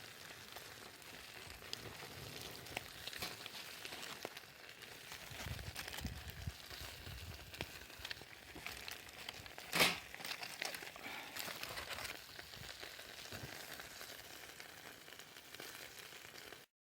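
Crackling and sizzling from cooking over a wood campfire, with a brief louder hiss about ten seconds in.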